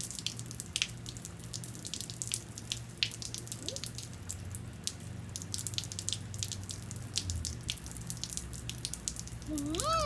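Rain dripping and pattering as quick irregular drops. Near the end comes one short rising-and-falling squeal.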